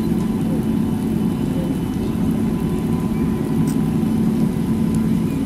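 Locomotive of a slow-moving train running with a steady low hum and rumble as it approaches.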